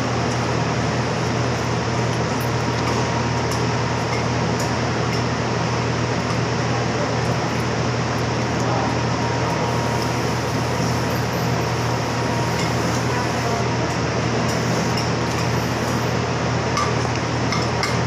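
Steady machine hum, the kind of room air conditioning or fan noise, with a few faint clinks of dishes and cutlery.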